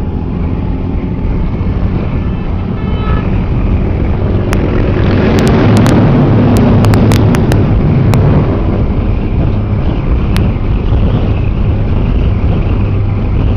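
Can-Am Spyder three-wheeled motorcycle engine running steadily on the move, swelling louder about five to eight seconds in, with a cluster of sharp clicks in that louder stretch.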